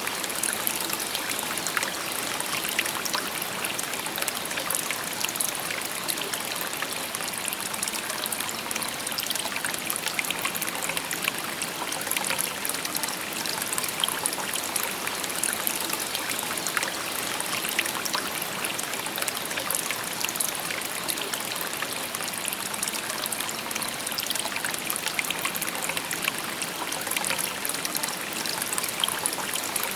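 Shallow river babbling steadily over stones, a continuous rush of water dotted with small splashes and trickles.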